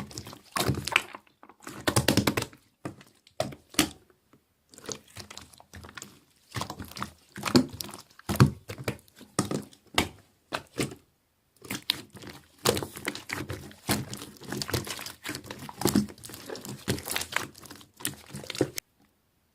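Slime being squeezed and worked, giving irregular clusters of wet popping and crackling clicks with short pauses between, stopping abruptly near the end.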